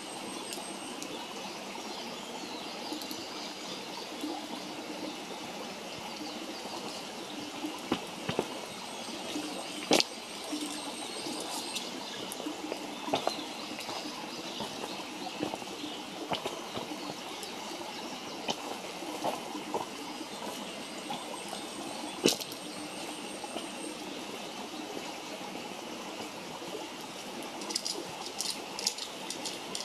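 Wood campfire burning with a steady hiss and scattered crackles and pops. The sharpest pops come about ten seconds in and again a little past twenty seconds, and a run of quick crackles starts near the end.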